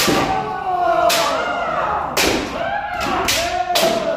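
Kendo practice: bamboo shinai cracking against armour about six times at uneven intervals, over long held kiai shouts from the practitioners.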